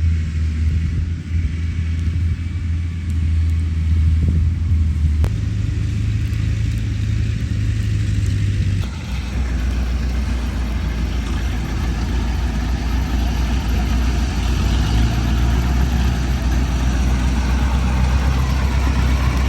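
Kubota 105 combine harvester running steadily with a deep diesel engine note. The note shifts about 5 seconds in and again about 9 seconds in, when a fuller, noisier layer of machinery joins.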